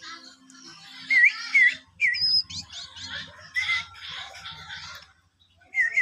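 Sooty-headed bulbul calling: short bright whistled notes that dip and rise, with harsher scratchy chatter between them and a quick run of several notes near the end.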